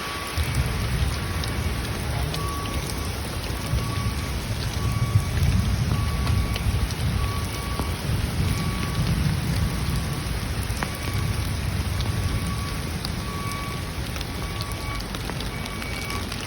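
Steady heavy rain falling, with low rolling thunder that swells in waves from about five seconds in and fades again toward the end.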